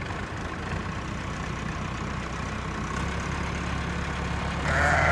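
Steady low hum, like an idling engine, under a faint background hiss in a sheep farm recording. The hum swells slightly about three seconds in, and a higher-pitched sound starts just before the end.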